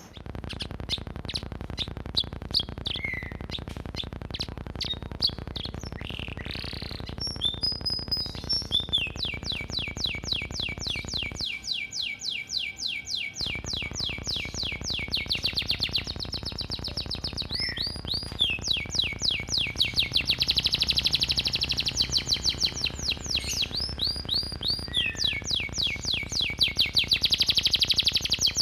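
Domestic canary singing long, very fast rattling trills of repeated notes, broken by short sweeping phrases, in a song filled with house-sparrow-like notes. The trills grow louder toward the end.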